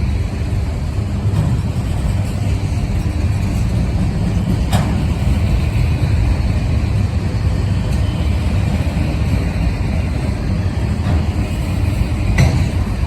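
Long freight train of auto rack cars rolling past close by: a steady, loud, low rumble of steel wheels on the rails, with a sharp clank about five seconds in and another near the end.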